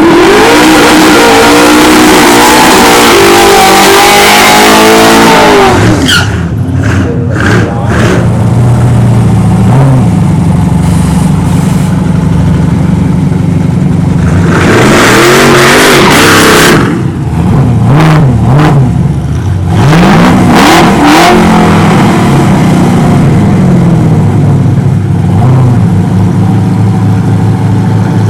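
Two nitrous-fed V8 drag trucks at full throttle in a side-by-side run, engine pitch climbing for about six seconds before they lift off suddenly. Later the engines rev again in two loud stretches, pitch rising and falling, then run on more steadily.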